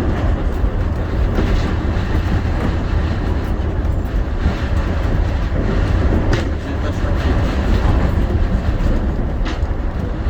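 Shonan Monorail 5000 series suspended monorail car running between stations, heard from inside the cabin: a steady low rumble from its rubber-tyred bogies and traction motors, with a couple of brief clicks.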